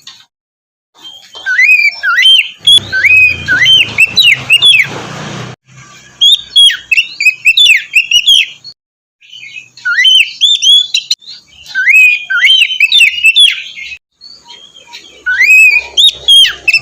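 Oriental magpie-robin (kacer) singing loud, varied phrases of quick, sweeping whistled notes, broken by short, abrupt pauses. A low rumble runs under one phrase near the start.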